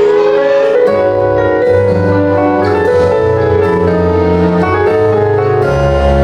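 Live band playing an instrumental passage with piano to the fore and no vocals; the bass comes in about a second in and grows heavier near the end.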